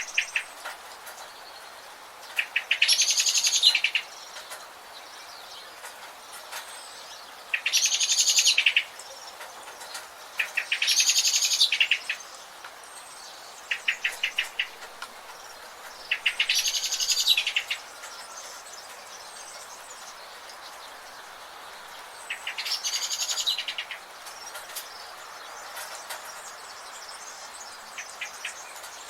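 Birds singing: one bird repeats a rapid, dense trilled phrase about every three to six seconds, each lasting a second or two, with short runs of quick chattering notes in between, over a steady background hiss.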